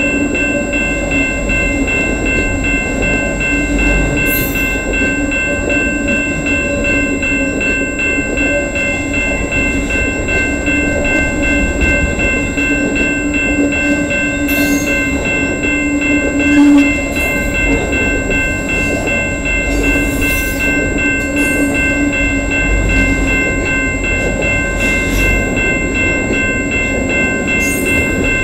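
A long freight train's cars rolling past at steady speed, wheels clicking over the rail joints, with a steady rumble and several sustained ringing tones over it.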